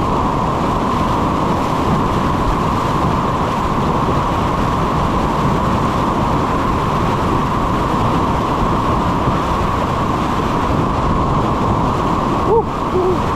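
Steady rushing of whitewater rapids around a kayak, a loud, even roar.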